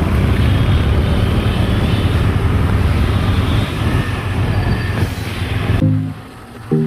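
Street traffic noise: a steady, loud low rumble that cuts off abruptly about six seconds in. A few musical notes follow near the end.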